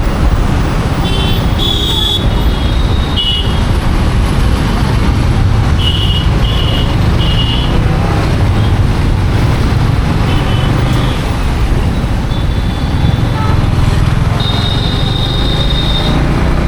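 Ride-along road noise from a motorcycle in city traffic: a steady low rumble of engine, tyres and wind. Other vehicles' horns toot repeatedly over it, with three short toots in quick succession about six seconds in and a longer horn blast near the end.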